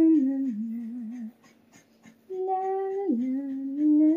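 A woman humming a tune in long held notes that step up and down in pitch, in two phrases with a short pause in the middle.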